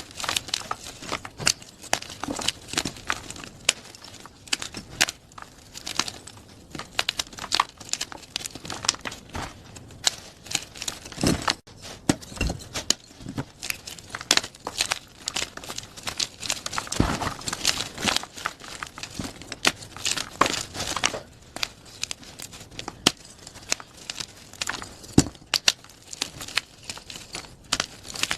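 Plain gym chalk being crushed, a dense irregular run of dry crunches and crackles as the chalk breaks and crumbles into powder.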